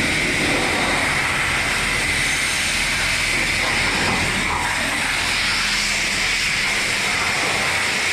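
Steady hiss of a water spray washing mud off a dirt bike.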